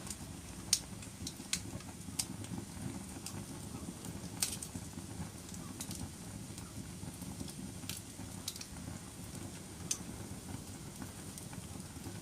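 Wood fire burning in a fireplace: a steady low rumble of flames with sharp crackles and pops at irregular intervals, the loudest pop under a second in.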